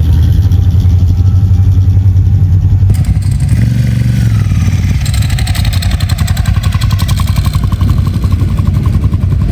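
Classic car engines running loud and low as cars drive out past. About halfway through, a second engine's rapid, even pulsing comes in over the rumble.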